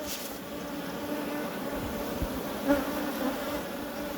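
Honeybees buzzing around an open top-bar hive, a steady hum from the colony during a spring build-up.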